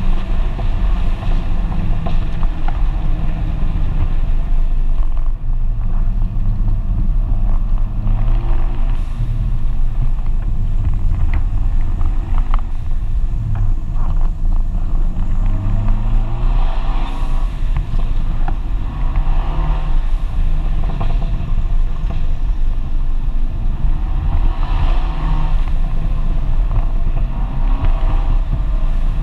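FIAT 124 Spider Abarth's turbocharged 1.4-litre four-cylinder engine and exhaust, heard from inside the open cabin, pitch rising and falling as the car accelerates and eases off, over steady wind and road noise.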